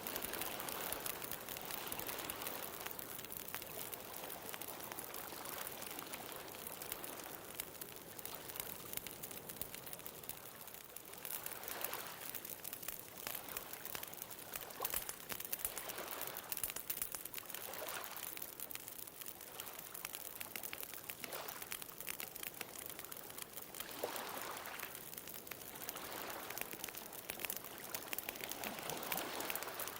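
Bonfire crackling with a scatter of small pops, over ocean waves that wash in and out, swelling every few seconds.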